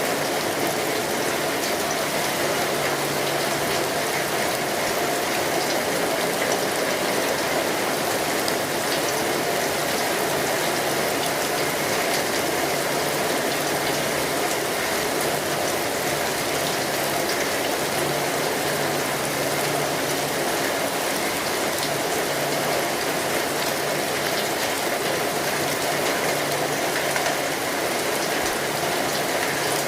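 Steady rainfall, an even hiss of many drops with no let-up.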